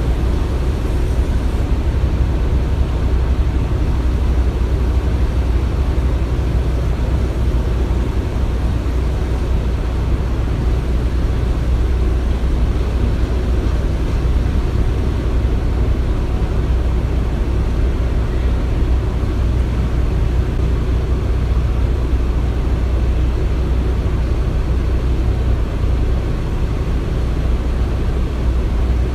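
Construction-site ambience: a continuous, steady low rumble of machinery, with no distinct knocks or impacts.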